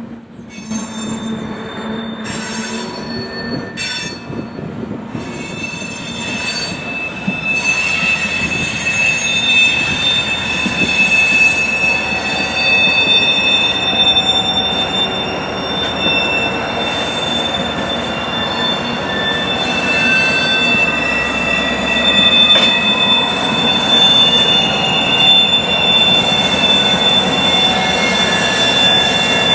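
Freight train moving slowly through an interchange, its steel wheels squealing against the rails in several steady high tones over a low rumble. The squeal grows louder about a quarter of the way through.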